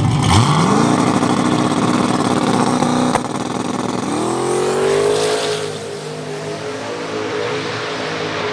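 Drag car engine at full throttle down the strip: the engine pitch climbs quickly and holds, a sharp crack comes about three seconds in, then the pitch climbs again and holds.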